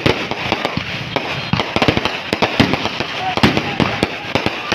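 Fireworks and firecrackers going off in a rapid, unbroken barrage of bangs and crackles, several reports a second.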